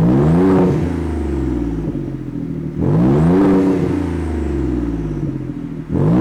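2018 Ford Raptor's twin-turbo 3.5-litre EcoBoost V6 through a Remus triple side-exit catback exhaust, accelerating hard. Three times the exhaust note comes in suddenly, rises in pitch, then drops away: at the start, about three seconds in, and near the end.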